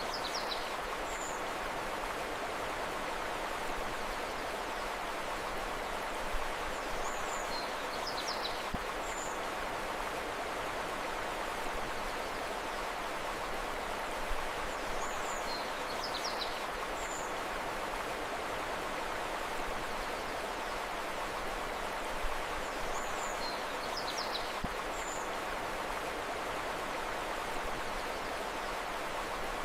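Steady rushing of flowing river water, with short clusters of high bird chirps about every eight seconds.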